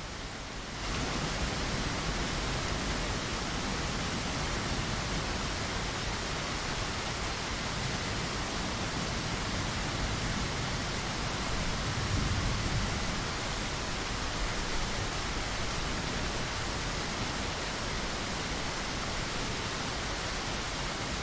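Steady rainfall, an even hiss with no separate drops standing out, stepping up in loudness about a second in.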